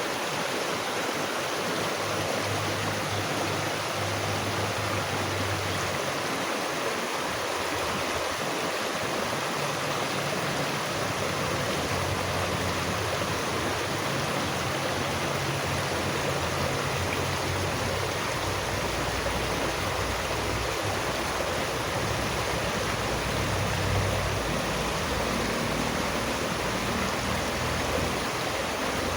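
Running water rushing steadily, with a low, shifting churn beneath the hiss.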